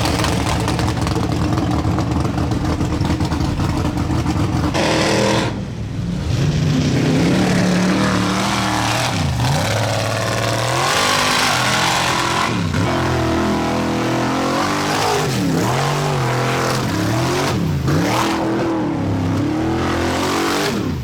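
Vehicle engine revving, its pitch rising and dropping again several times, with a brief break about five seconds in.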